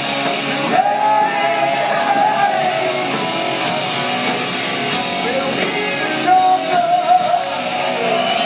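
Live rock band playing with electric guitars, and the male singer holding two long sung notes, one about a second in and a shorter one near the end.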